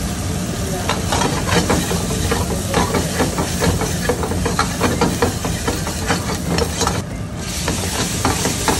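Chopped onions and garlic sizzling in hot oil in a steel wok, with the steel ladle clinking and scraping against the pan from about a second in. A steady low rumble runs underneath, and the hiss drops away briefly just after seven seconds.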